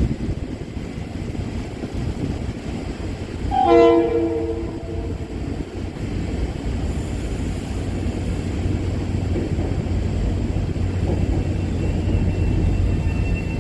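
Metro-North commuter train running with a steady low rumble, and one short train-horn blast about four seconds in.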